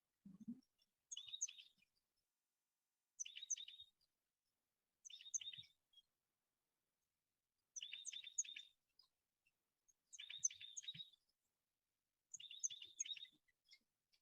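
A songbird repeating a short, high chirping phrase of three or four quick notes, seven times, about every one and a half to two seconds, with silence between the phrases.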